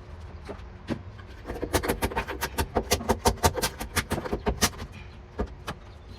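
Hand scraper jabbed against the car's sheet-metal floor pan to chip off old sound-deadening material: a quick run of sharp scraping knocks, about six a second, with a few single knocks before and after.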